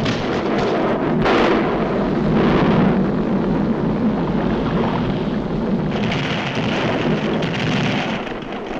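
Cartoon sound effects of an erupting volcano: continuous loud rumbling and explosive blasts.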